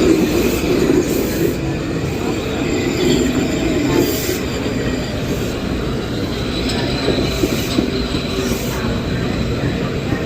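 Metro-North commuter train running through the station: a steady, loud rumble of wheels on the rails, with a faint thin squeal from the wheels.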